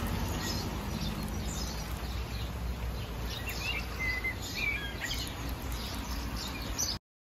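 Steady hiss of light rain falling on a worktop and driveway, with birds chirping now and then. The sound cuts off suddenly near the end.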